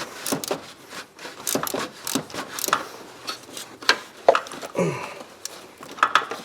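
Irregular clinks and scrapes of hand tools on metal as a loose spark plug is worked out of the engine.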